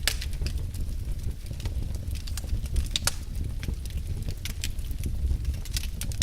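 Fire in a fireplace crackling, with irregular sharp pops over a steady low rumble of the flames; one louder pop about three seconds in.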